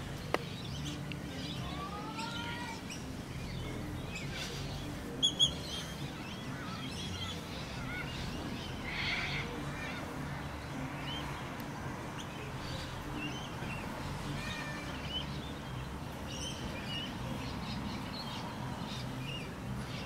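Birds calling in scattered short chirps and whistles, including two rising whistles about two seconds in and two short, louder high notes about five seconds in, over a steady low hum.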